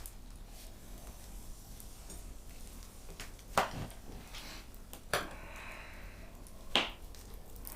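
Cutlery and dishes clinking: three short sharp clinks about a second and a half apart, the first the loudest.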